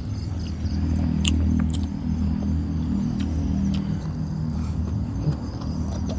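Close-miked eating sounds, chewing with a few short mouth clicks, over a steady low rumble, with crickets chirring steadily in the background.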